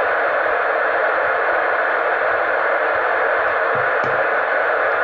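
Steady FM radio static hiss from a 2-metre transceiver's speaker, the receiver's squelch open on the repeater channel with no one talking. The hiss sits in a narrow mid band and stays at one level throughout.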